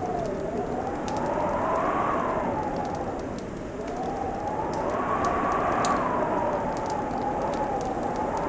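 Fireplace crackling with frequent small sharp pops, over a steady howling wind whose whistle rises and falls slowly in pitch.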